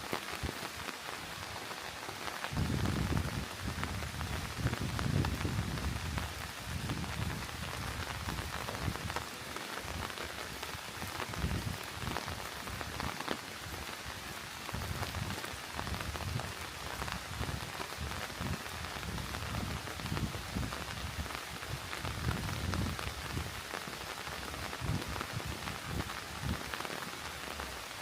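Steady rain pattering, a dense hiss of many small drop impacts, with irregular low rumbles coming and going underneath.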